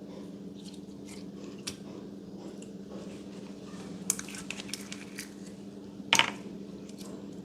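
Slime being squished and pressed by hand, giving scattered sharp crackles and pops, clustered about four seconds in, with the loudest pop about six seconds in. A steady low hum runs underneath.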